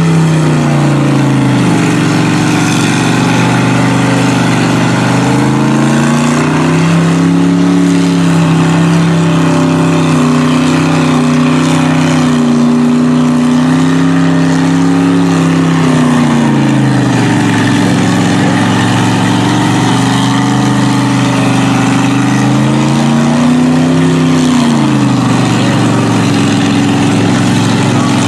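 Mud truck engine revving hard and easing off in repeated swells: the pitch drops about a second in, climbs and holds high for much of the middle, falls, then rises and falls once more near the end.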